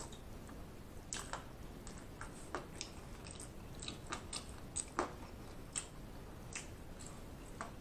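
Quiet mouth sounds of a person eating: soft chewing with faint wet smacks and clicks, about a dozen at uneven intervals.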